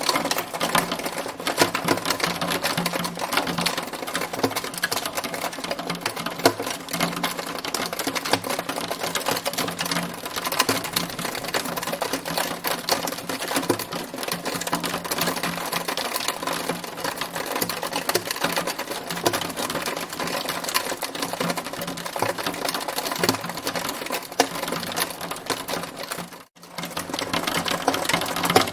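Hail falling in a dense, continuous clatter of rapid ticks, cutting out briefly near the end.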